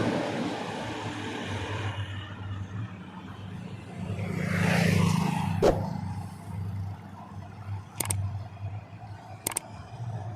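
Highway traffic passing at speed: one vehicle's noise fades away over the first couple of seconds, and another approaches and passes about five seconds in. A few sharp clicks follow near the end.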